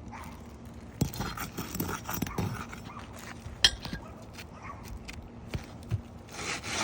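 Scattered knocks, scuffs and scrapes from work on an asphalt shingle roof, with one sharp click about three and a half seconds in.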